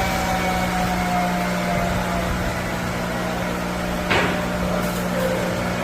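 Electric buffing machine running on a stainless steel table, its whine slowly dropping in pitch during the first two seconds over a steady hum. A single sharp knock about four seconds in.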